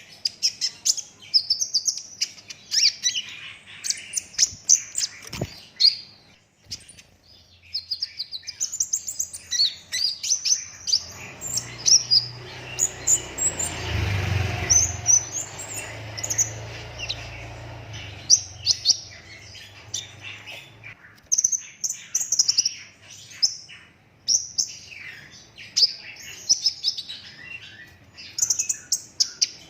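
A kolibri ninja sunbird singing continuously in rapid, tightly packed high chirps and trills. Partway through, a low rumble swells and fades under the song.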